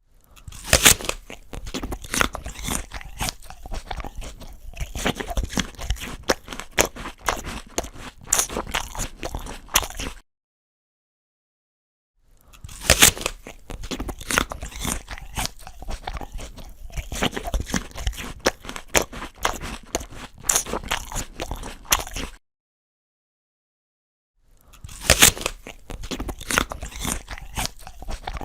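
A person biting into a crisp apple and chewing it, crunching loudly; this happens three times, each a sharp bite followed by about ten seconds of crunchy chewing, with total silence of about two seconds between.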